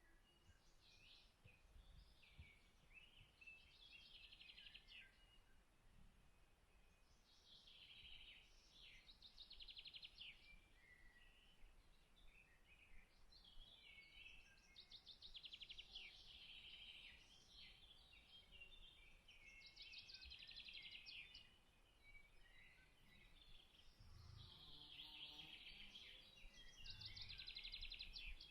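Faint songbird song: short phrases with rapid trills, repeated every few seconds over a quiet outdoor background.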